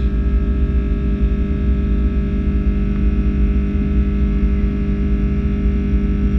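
Airbus A330-300's Rolls-Royce Trent 700 engines heard inside the cabin: a steady deep rumble with a constant whine of several fixed tones over it.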